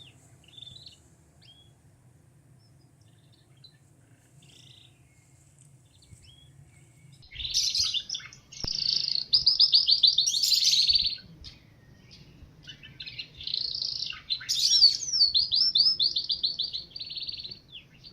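A songbird singing: faint scattered chirps, then two long loud song phrases of rapid repeated notes, the first starting about seven seconds in and the second about thirteen seconds in.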